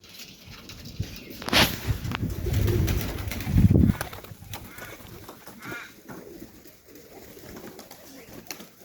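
Domestic pigeons cooing, with a loud low rumble about two to four seconds in.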